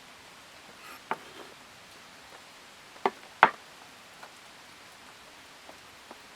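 Light rain hissing steadily, with three sharp knocks: one about a second in, then two close together about three seconds in, the last the loudest.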